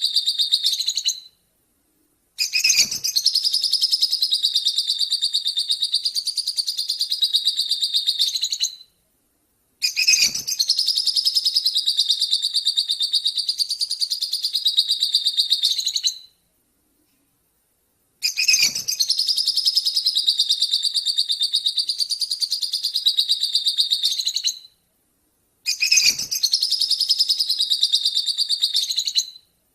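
Lovebird singing in long, unbroken bouts of fast repeated high notes, each bout running about six seconds, with short pauses between them.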